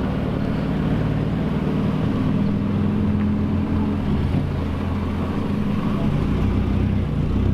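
A car engine running steadily, its pitch shifting slightly now and then, with voices in the background.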